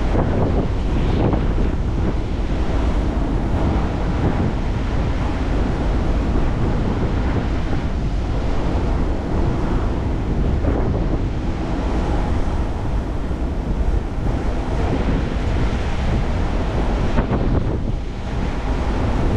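Strong typhoon wind blowing and buffeting the microphone: a continuous heavy rush with a low rumble, gusting without letup.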